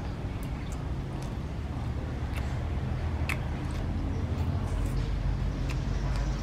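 Mouth sounds of eating: short crisp clicks and crunches of chewing and of biting into a fresh lettuce leaf and a green onion stalk, over a steady low rumble.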